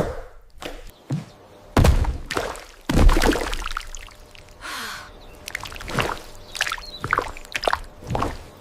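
Close-up AI-generated food ASMR sounds: an irregular run of sharp clicks and short noisy bursts, the loudest about two and three seconds in.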